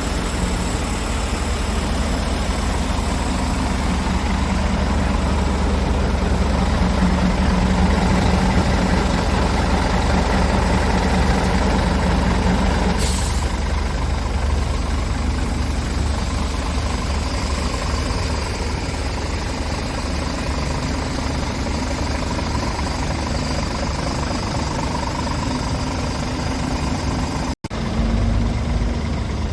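A Scania R410 tractor unit's 13-litre six-cylinder diesel engine running steadily, with a brief sharp noise about thirteen seconds in. The sound drops out for an instant near the end.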